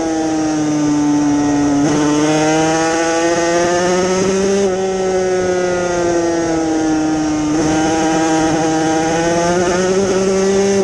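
Yamaha TZ250 two-stroke race bike engine at racing speed, its pitch gliding up and down with the throttle and jumping abruptly about every three seconds, over a steady rush of wind noise.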